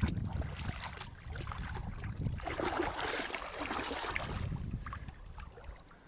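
Wind buffeting the microphone as a low rumble, with a swell of rustling hiss in the middle and scattered soft knocks.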